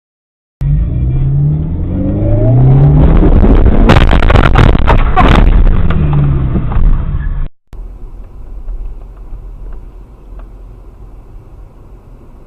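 Car engine revving hard, its pitch climbing in repeated rising sweeps, with a cluster of sharp cracks or knocks in the middle before the pitch falls away. It cuts off suddenly and gives way to quieter steady road noise.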